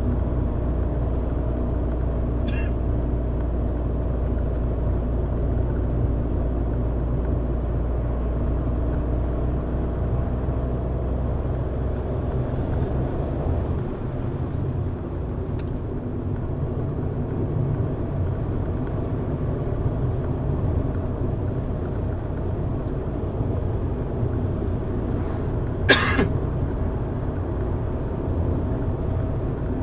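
Car driving along a road: steady engine hum and tyre noise. About halfway through, the deepest part of the engine drone drops away. A single sharp click sounds near the end.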